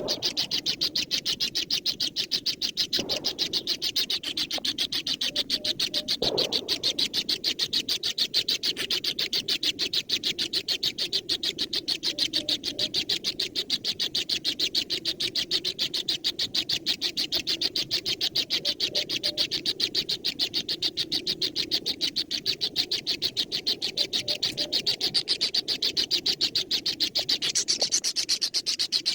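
High-pitched bird chirps repeated fast and evenly without a break, with two soft knocks about three and six seconds in.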